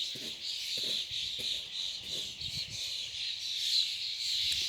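A large flock of small birds chirping and chattering all at once, a dense continuous chorus of many overlapping calls.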